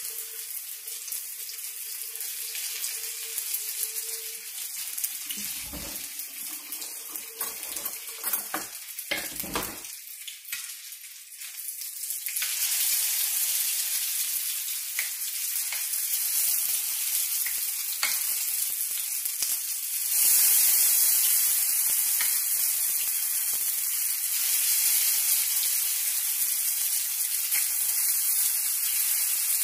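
Potato pancakes sizzling in hot oil in a frying pan, with a few knocks of a metal spatula against the pan. The sizzle gets louder about twelve seconds in and again near twenty seconds, as the pancakes are turned over.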